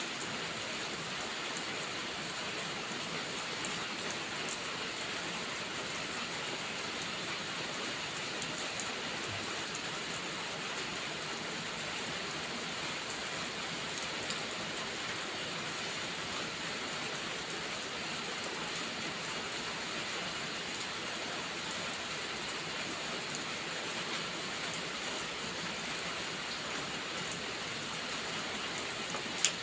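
Steady rain falling, an even hiss with a few scattered ticks of drops and one sharper click near the end.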